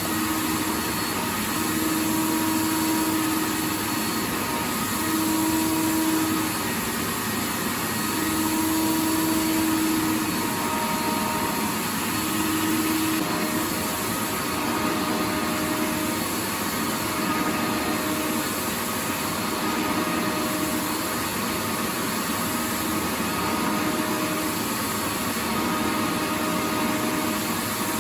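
Vacuum cleaner running steadily: an even rushing hiss with a motor hum whose tones waver, one coming and going every second or two.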